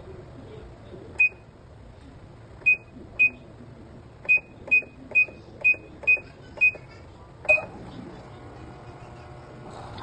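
Ten short single-pitch electronic beeps at irregular intervals, from the control panel of a Hanabishi automatic washing machine as its buttons are pressed to set a wash.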